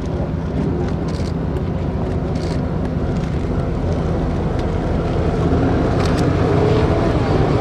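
Engines of military vehicles driving past in a parade, a steady low drone that grows a little louder in the second half.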